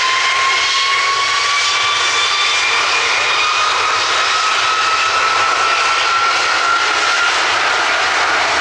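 Aircraft jet engine powering up at close range: a loud, steady roar with a high whine that climbs slowly in pitch.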